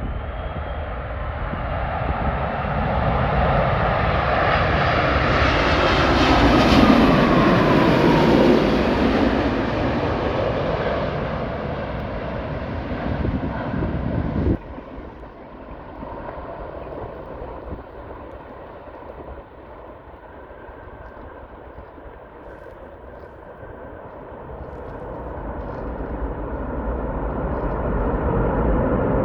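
Boeing 787-10 jet airliner passing close by, its engine noise swelling to a peak and then fading, with a whine that falls in pitch as it goes past. The sound drops off abruptly about halfway through, then jet noise builds up again near the end.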